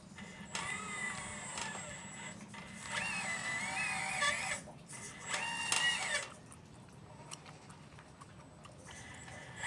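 RC Liebherr 954 excavator model's motors whining in three bursts that shift in pitch as it moves, over a steady low hum.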